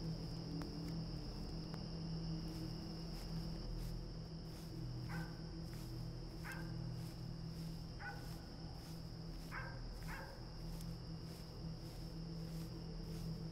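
A dog barks five times, faintly, over a steady high drone of night insects and a low steady hum.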